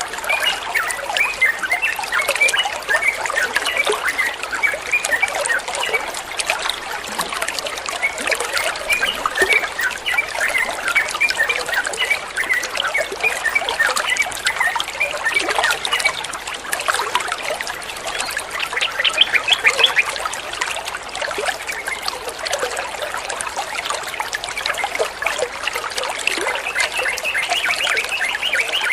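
Water trickling steadily under a sooty-headed bulbul's short, repeated chirping notes, which carry on throughout and are a little louder about two-thirds of the way through.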